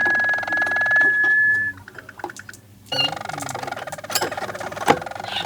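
Roller canary singing in rapid rolling trills, one held note breaking off under two seconds in; after a pause of about a second the rolls start again, with a couple of faint clicks near the end.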